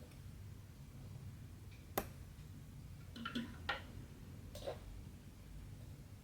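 A few small sharp clicks and taps from hand cross-stitching work over a low steady room hum: one click about two seconds in, a quick cluster a little after three seconds, and a softer tap near the end.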